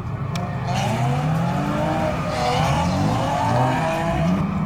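A drift car's engine revving hard, its pitch climbing and dropping again and again, with a rush of tyre noise midway.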